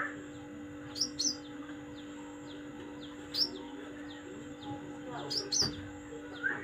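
A small wild songbird giving short, high, down-slurred chirps, singly or in quick pairs every second or two, over a steady background hum.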